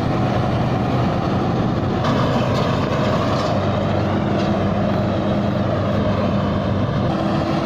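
Tai Seng rice combine harvester's engine running steadily under load as the heavy, grain-laden machine works through deep paddy mud, with a faint wavering whine from about two to four seconds in.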